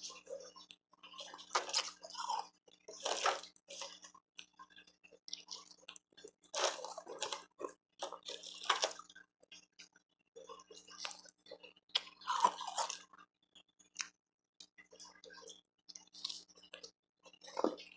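Close-miked chewing and crunching of refrozen powdery ice, in crackly bursts about a second long separated by short pauses.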